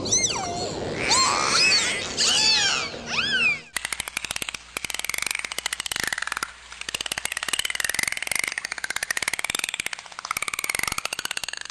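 Animal calls: several high whistling calls that sweep up and down in pitch, then a fast, steady train of clicks with a wavering whistle-like tone over them.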